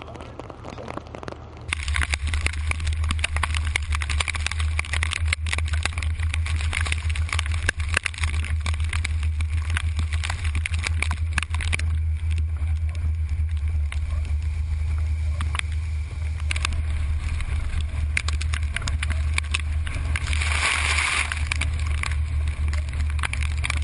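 Hurricane wind buffeting the microphone in a loud, steady low rumble, with a rushing hiss over it, starting suddenly about two seconds in and briefly louder in a gust near the end.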